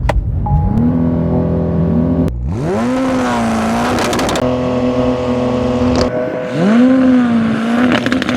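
Porsche 911 Turbo S's twin-turbo flat-six revved up and held at steady revs while staged for a drag launch. The revs rise quickly and settle three times: at the start, about two and a half seconds in, and about six and a half seconds in.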